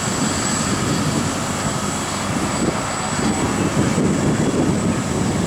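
Hydrema 912 water truck's diesel engine running steadily under load, a dense low rumble with a thin, steady high whine over it.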